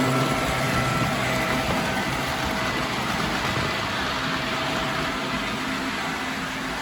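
Model train running on the layout: a steady, even engine-like rumble with a few faint steady tones over it.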